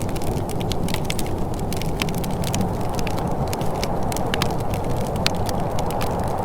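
Wood fire crackling, with frequent small sharp pops scattered irregularly over a steady low rumble.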